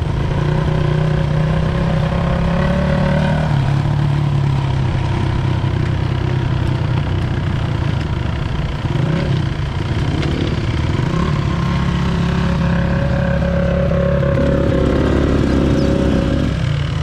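Enduro dirt bike engine running under way, its pitch rising and falling a few times with the throttle.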